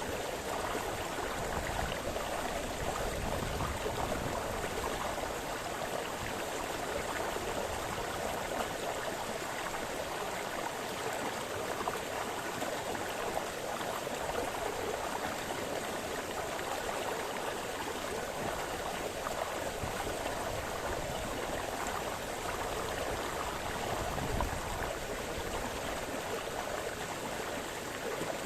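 A small brook splashing and burbling over stones, a steady rush of running water.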